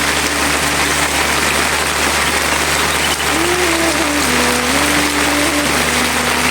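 Steady heavy rain falling. About halfway through, a faint melody of held notes stepping up and down enters beneath it.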